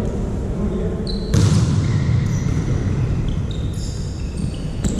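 Volleyball game sounds in a sports hall: a sharp thud about a second in, then a run of high squeaks from shoes on the court floor over a steady low rumble of hall noise.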